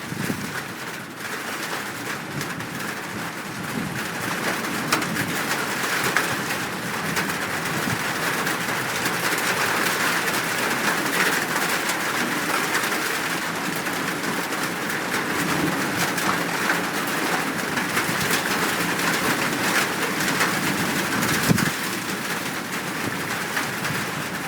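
Birds calling over a steady hiss of rain.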